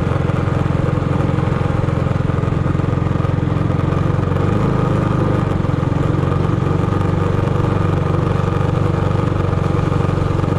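Minibike's small single-cylinder four-stroke engine running steadily at a near-constant speed.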